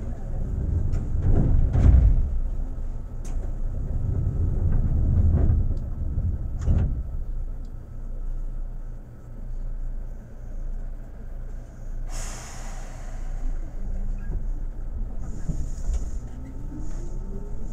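Seibu 2000 series electric train at a station stop: clunks and thumps over a low rumble, a short burst of compressed-air hiss about twelve seconds in, then near the end a rising whine from the traction motors as the train starts to pull away.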